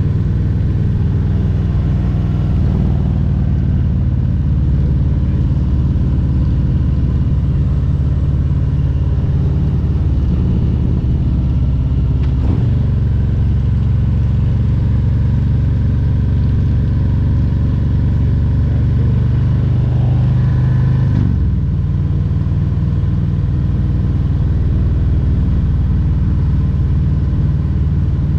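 Harley-Davidson Milwaukee-Eight 114 V-twin engine of a Road Glide Special running under way on the road. The engine note changes briefly about 12 and 21 seconds in.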